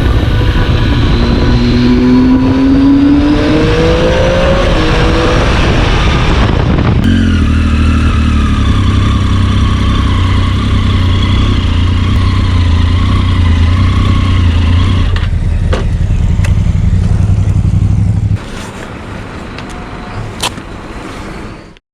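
Triumph Tiger 800's inline-three engine and exhaust on the move: it revs up with a rising pitch in the first few seconds, holds steady revs for a long stretch, then drops to a quieter note near the end.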